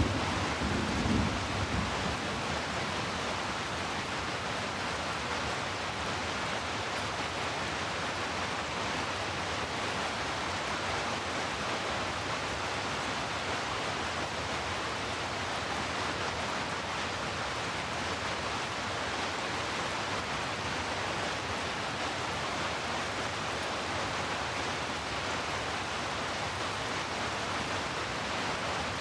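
Heavy rain falling steadily, an even, unbroken hiss. A low rumble dies away about a second in.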